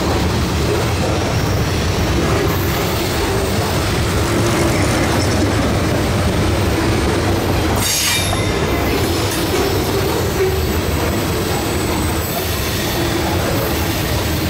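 Freight cars of a CSX mixed freight train rolling past at speed: a steady rumble and clatter of steel wheels on rail.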